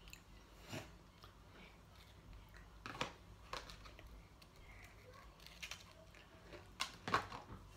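Chewing of a chocolate cream sandwich biscuit: faint crunches with a few sharper crisp crunches, two close together near the end as it is bitten again.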